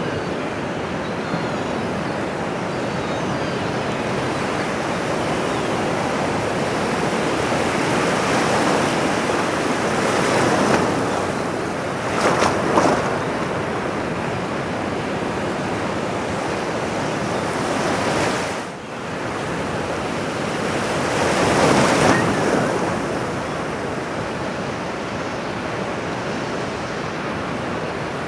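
Ocean surf: waves breaking and washing on a shore as a continuous rush, swelling several times, with the sharpest break about twelve seconds in and another large swell around twenty-two seconds.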